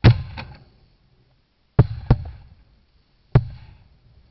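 Shotgun shots, five reports in all: a quick pair at the start, another pair about a second and a half later, and a single shot near the end. Each is a sharp crack with a short ringing tail.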